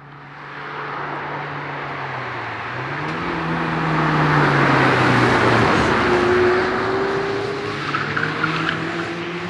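A car driving past on a mountain road. Its engine climbs in pitch as it accelerates, is loudest about five seconds in, and drops in pitch as it goes by, over the hiss of its tyres. Another engine comes up near the end.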